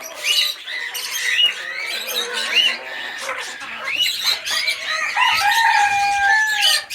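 Chickens giving repeated short, upset calls, with a long held crow-like call near the end.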